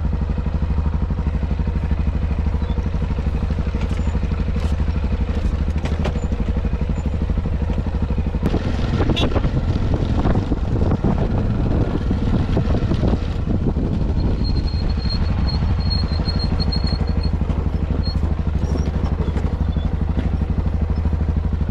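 Yamaha XT660Z Ténéré's single-cylinder engine running steadily, with a noisier, rattly stretch in the middle.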